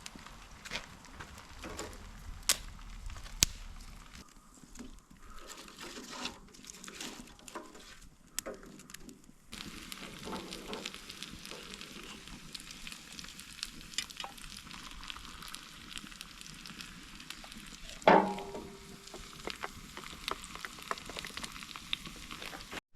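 Campfire crackling, with many sharp pops and clicks over a steady hiss. A single loud knock with a short ring stands out about eighteen seconds in.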